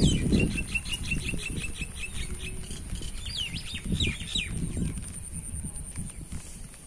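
Small birds chirping: a fast run of short repeated notes in the first two seconds, then a few sharp downward-swooping calls, over an uneven low rumble.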